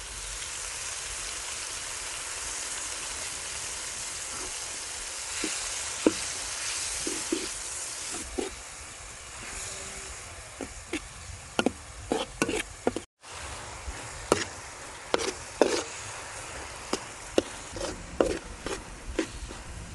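Garlic, shallot and palm sugar sizzling in hot oil in a metal wok just after fish sauce is poured in, a steady hiss. From about halfway through, a metal spatula scrapes and clinks against the wok again and again as the mixture is stirred.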